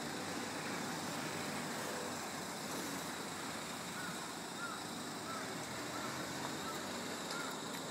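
Electric pop-top roof of a Mazda Bongo Friendee camper running steadily as it rises while the button is held down. Faint short chirps repeat through the second half.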